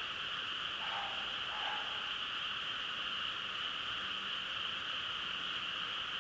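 Chorus of frogs calling continuously, a steady high-pitched trilling drone, with a couple of lower croaks about a second in.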